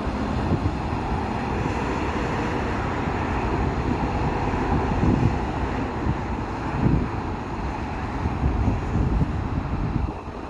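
Steady interstate traffic noise, with wind buffeting the microphone in low gusts several times.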